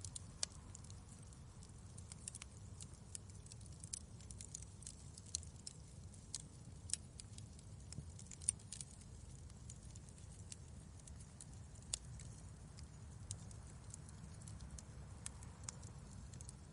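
Wood fire in a fireplace crackling: irregular sharp pops and snaps, a few louder ones, over a steady low rumble.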